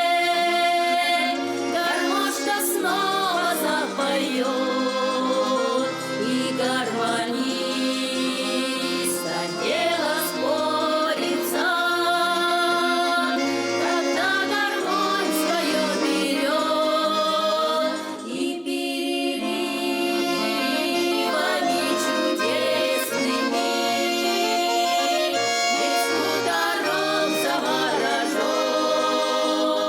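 Accordion playing a Russian folk song, with voices singing over it. There is a brief break about two-thirds of the way through.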